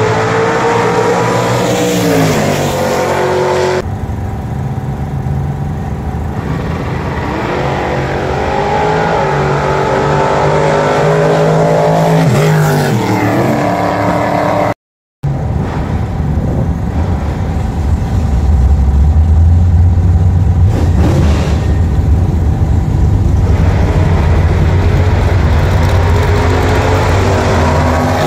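Drag-racing car engine at hard throttle, its pitch falling, then climbing slowly before dropping sharply, followed by a heavy steady drone. The sound breaks off briefly about halfway through.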